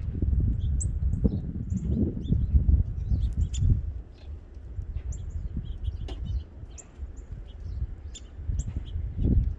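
Small songbirds giving short, high chirps again and again, over a louder, uneven low rumble that is strongest in the first few seconds and again near the end.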